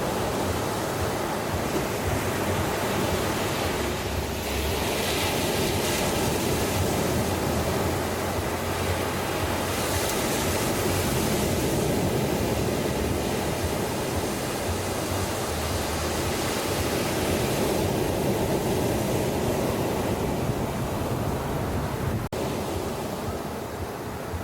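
Ocean surf on a beach: a steady rushing hiss of waves that swells twice as waves break and wash in, over a low rumble of wind on the microphone.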